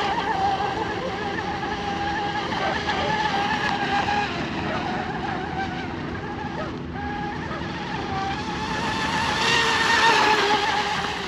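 RC hydroplane's water-cooled 3660 brushless electric motor whining at speed, its pitch wavering up and down with throttle, over the hiss of the hull and spray on the water. It grows louder near the end as the boat comes closer.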